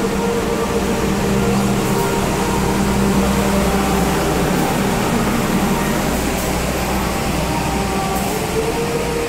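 Passenger train carriages running past close by: a steady rolling rumble with a low hum and a few held tones, one of them rising slightly near the end.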